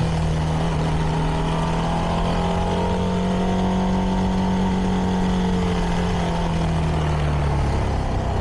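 CFMoto 300NK's single-cylinder engine running through its stock exhaust, holding steady revs while cruising, then easing off near the end.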